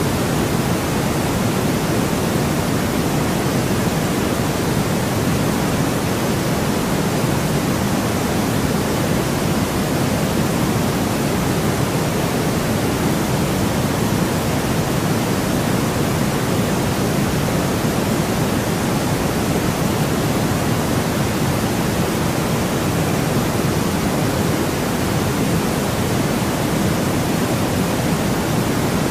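Steady white noise: a constant, even hiss with a full, deep body and no changes, rhythm or events.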